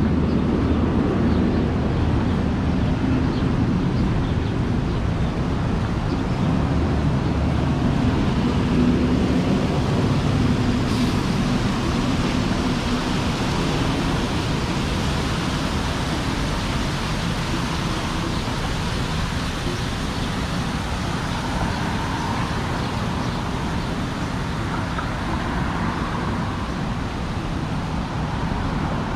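Wind buffeting the camera's microphone, mixed with the steady noise of road traffic on a busy city street.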